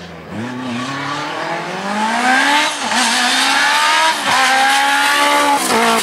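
Group B rally car engine accelerating hard under full throttle, revs climbing and dropping at each upshift, about three times. It grows louder as the car approaches.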